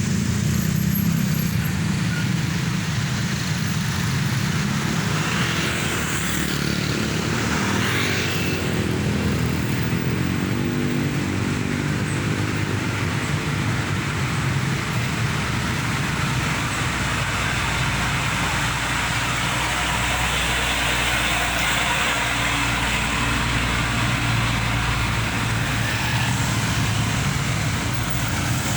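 Mitsubishi Fuso Fighter heavy truck's diesel engine running on the road amid traffic, its engine note climbing for a few seconds as it accelerates, with two brief whooshes and a steady deep rumble.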